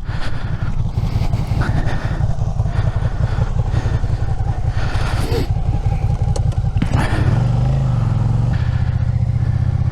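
Suzuki SV650's V-twin engine running with a steady pulsing beat. About seven seconds in there is a click, and the revs rise and fall briefly before the engine settles into steady running.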